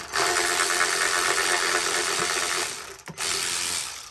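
Handheld power tool running to turn a bolt: a steady motor whine for about three seconds, a brief break, then about another second before it stops.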